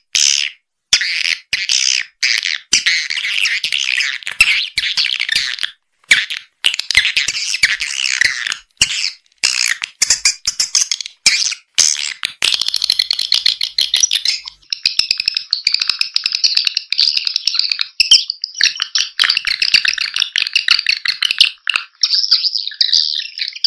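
Swiftlet calling track, the lure played to draw swiftlets into a nesting house: dense, rapid high-pitched chirping and twittering in quick bursts with short gaps. About halfway it turns into a steadier, continuous high buzzing twitter.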